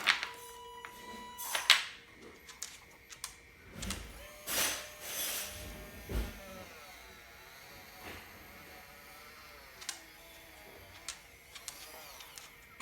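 A small electric motor whining faintly, its pitch wavering up and down, among scattered clicks and knocks of plastic parts being handled.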